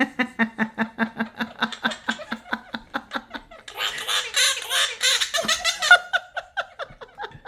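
Quaker parrot mimicking laughter: a fast, evenly spaced "ha-ha-ha" at one steady pitch, broken about four seconds in by a couple of seconds of harsh squawking, then laughing again.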